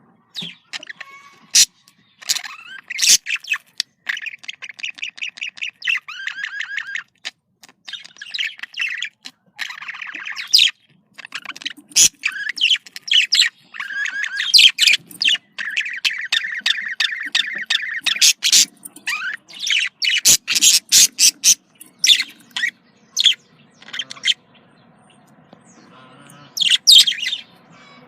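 Budgerigars chattering and warbling, a fast mix of clicking trills, squeaks and sharp chirps, going quieter for a moment near the end. This is the breeding-season chatter of budgies in mating mood.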